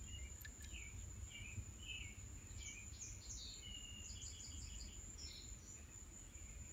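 Faint birdsong: a scatter of short chirps and a quick run of repeated notes, over a steady high-pitched tone and a low background rumble.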